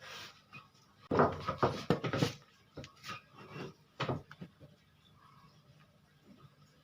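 Irregular knocks and scrapes of wooden pieces being handled and set down on a workbench, clustered in the first half, then nearly quiet.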